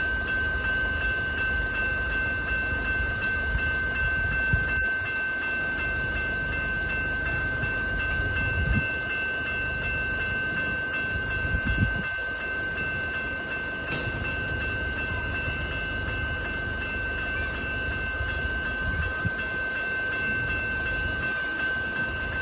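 Level crossing warning bell ringing as a steady tone while a train runs through the crossing, a continuous low rumble with a few wheel thumps.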